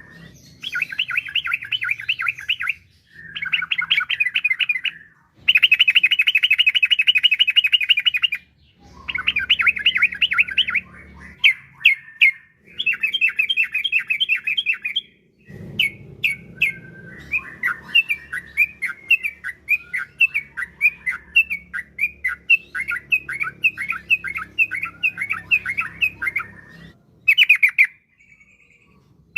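Yellow-vented bulbul (trucukan) singing in fast trilled bursts of repeated notes, several phrases with short pauses between them, then a longer chattering run of song in the second half.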